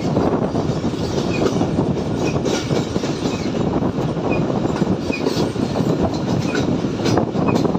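Train running along the track: a steady rumble and rattle of the wheels and cars.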